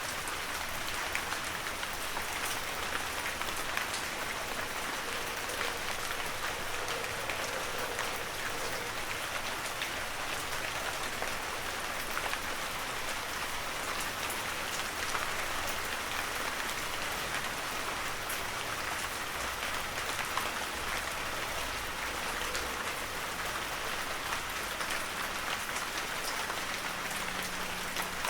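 Heavy rain falling steadily, an even hiss of countless drops with fine ticks of individual drops striking surfaces.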